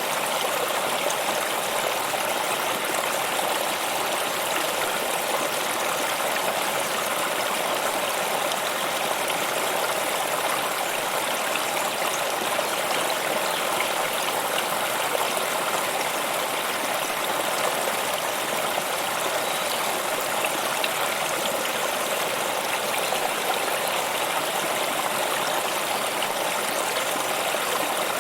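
Stream water running over rocks, a steady rushing and trickling with no break or change.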